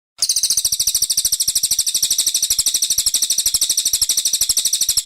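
Brown cililin bird song: a rapid, steady, high-pitched trill of evenly repeated notes, about fifteen a second. It starts and stops abruptly, as a cut recording.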